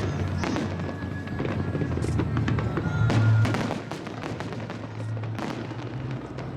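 Aerial fireworks bursting in a rapid string of cracks and pops, the loudest volley about three seconds in, with music playing underneath.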